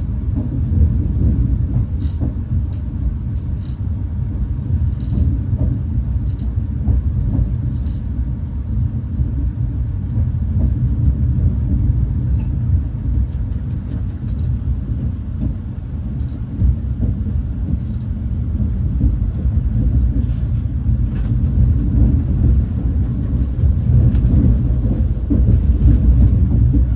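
Steady low rumble of a Renfe class 130 (Talgo 250) high-speed train running along the line, heard from inside a passenger coach, with faint scattered clicks.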